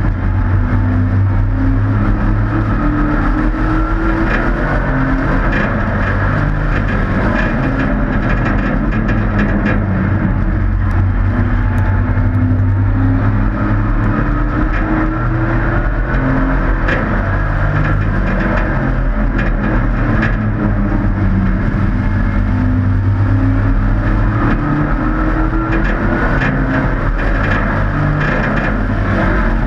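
Hobby-class race trucks' engines running at race speed, the engine note climbing and dropping again and again as the trucks accelerate and lift around the oval.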